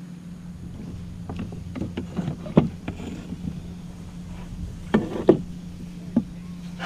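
Several sharp knocks and bumps on a plastic fishing kayak while a hooked flounder is handled beside it, over a steady low hum.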